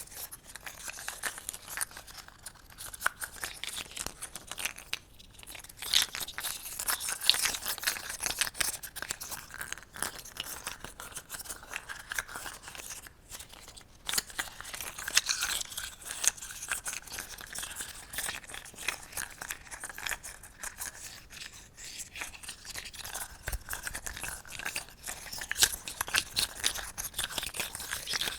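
Close-miked ASMR sounds: a dense, continuous stream of crisp crackling, scratching and small clicks from objects being handled near the microphone, thinning out briefly twice.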